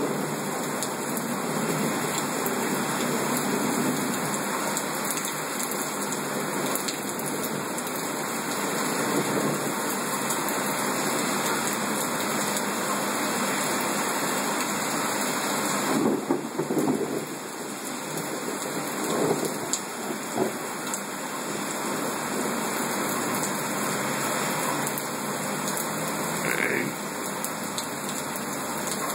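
Heavy rain pouring down, a steady dense hiss. It shifts in tone about halfway through, with a few louder swells of splashing.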